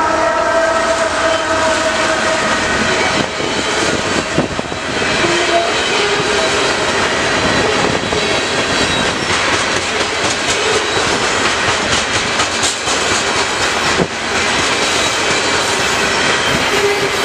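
CSX freight train passing close by. A mid-train locomotive goes by first with steady tones that fade out over the first three seconds. Loaded flatcars then roll past with a steady wheel rumble and clickety-clack over the rail joints.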